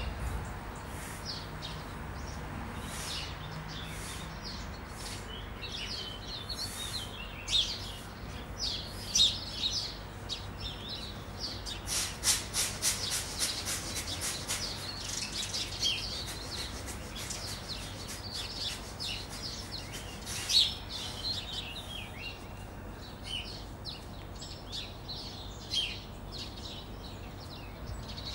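Small songbirds chirping and twittering again and again, with a fast rattling trill about halfway through, over a steady low background noise.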